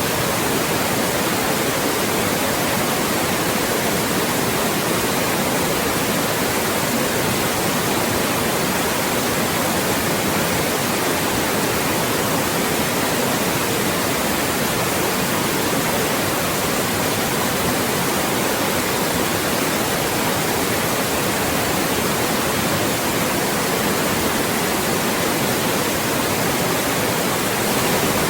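Loud, steady white noise: an even hiss across all pitches, without change, used as a speech-masking sound.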